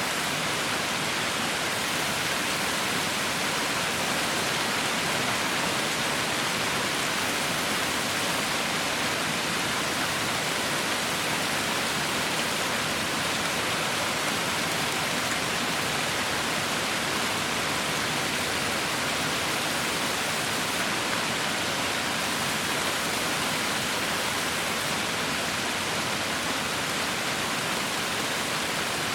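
Heavy rain falling as a steady, even hiss with no distinct drops or thunder.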